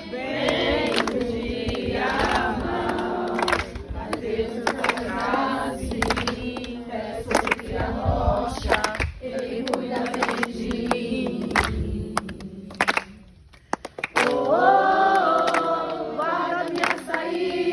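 A group of voices singing a Portuguese-language worship hymn together, with a brief break about thirteen seconds in before the singing picks up again.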